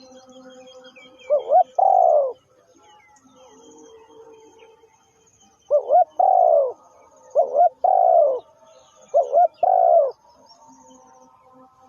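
Spotted dove cooing: four calls, each two short rising notes followed by a longer, falling note.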